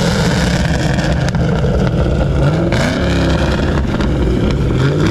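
A performance car's engine being revved hard while parked, in repeated blips that climb and fall back, with a choppy idle between them. It sounds crazy, like a cammed engine.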